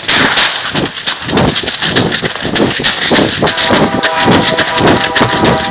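An approaching train in a rock tunnel: loud, noisy rushing with rhythmic crunching two or three times a second, joined about three and a half seconds in by a steady multi-tone horn held to the end.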